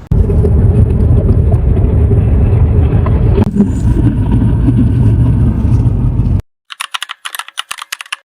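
Steady low rumble of a car in motion, cutting off abruptly about six seconds in, followed by a quick run of light clicks and rattles.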